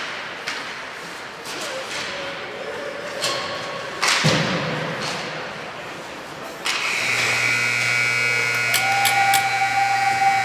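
Ice hockey sticks and puck clacking, with a loud bang about four seconds in that rings on like a puck or player hitting the boards. From about two-thirds of the way through, a steady, sustained sound with several pitches holds to the end.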